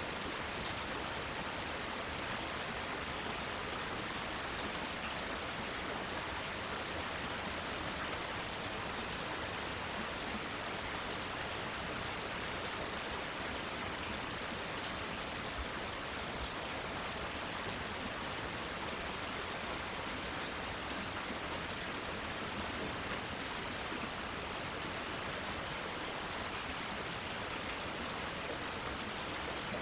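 Steady rainfall: an even hiss of rain with faint, scattered drop ticks.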